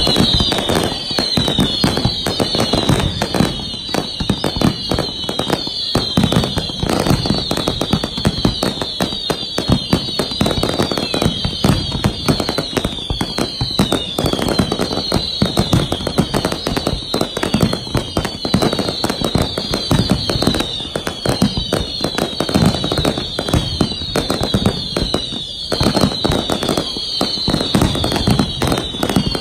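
Dense fireworks barrage: a continuous rapid run of bangs, pops and crackle from many shells going off close together. Over it, short high falling whistles repeat about once a second.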